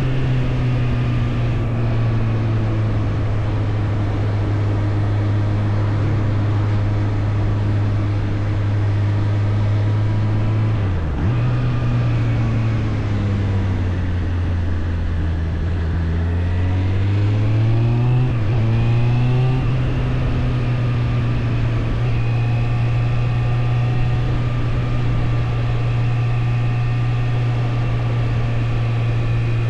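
Suzuki GSF 600 Bandit's inline-four engine running at steady road revs, with wind rush over it. About eleven seconds in the engine note breaks briefly, then sinks for a few seconds and climbs again, with another short break near eighteen seconds before it settles steady.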